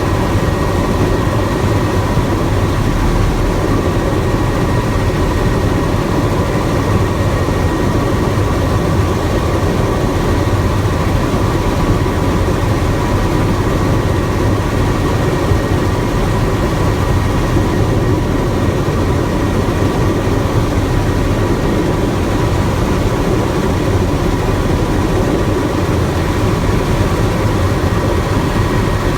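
Helicopter in flight heard from inside the cabin: a loud, steady mix of turbine whine and rotor noise, unchanging throughout.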